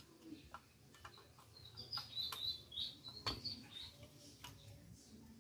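Faint chirping of a small bird in the background, a string of short high chirps in the middle, with a few soft clicks, the loudest about three seconds in.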